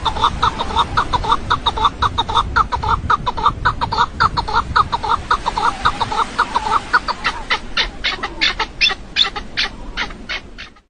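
A bird calling in a fast, steady run of short repeated notes, about five a second, with the higher part of each note growing stronger in the last few seconds.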